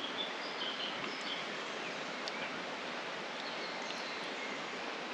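Steady woodland ambience, an even rustling hiss, with a few faint bird chirps in the first second or two and scattered light ticks.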